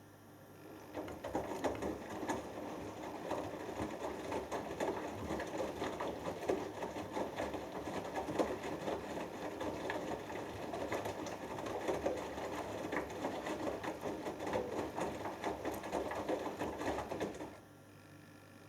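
Hoover Dynamic Next front-loading washing machine turning its drum in the wash: the motor spins up about a second in, and the wet cotton load tumbles and sloshes with many small slaps for about 16 seconds before the drum stops abruptly and the machine pauses.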